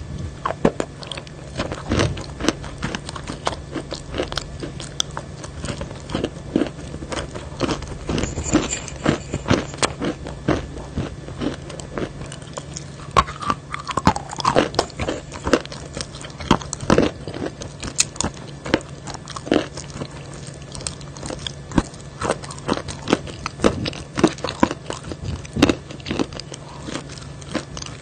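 Close-miked biting and crunching of chalk pieces, with many sharp crunches and chewing throughout. A low steady hum runs underneath.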